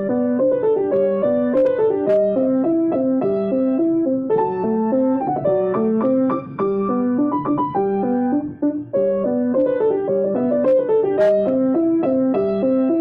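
Solo piano playing a flowing piece in evenly paced notes that step up and down.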